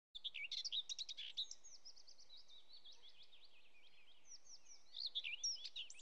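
Birds chirping: many quick, high chirps with sliding pitch, overlapping. They are thick in the first second and a half, sparser in the middle, and busier again from about five seconds in.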